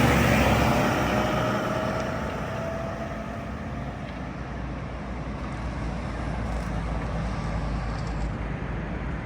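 Mack MRU McNeilus front-loader garbage truck's diesel engine running with a deep, low hum. It grows quieter over the first few seconds, then holds steady.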